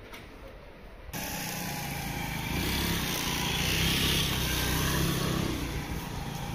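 A motorbike engine passing in street noise. It comes in abruptly about a second in, grows louder toward the middle, then eases off.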